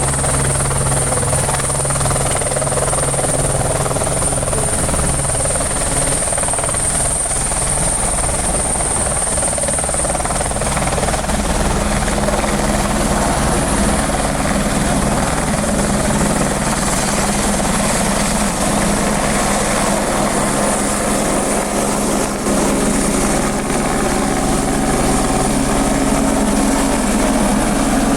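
Helicopter running, a continuous loud rotor and engine sound with a steady high-pitched whine over it; its lower tones shift in pitch about a third of the way in.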